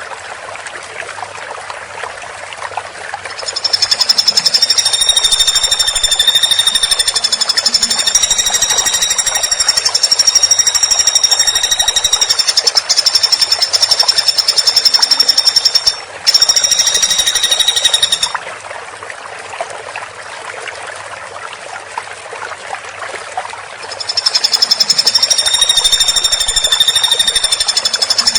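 Woodpecker giving long, very rapid, high-pitched rattling trills. One bout starts a few seconds in and lasts about fifteen seconds, broken briefly near the end; another begins near the end. Between the bouts there is a steady background hiss.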